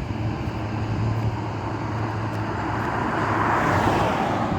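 A road vehicle passing, its tyre and engine noise swelling to a peak near the end and then starting to fade, over a steady low hum.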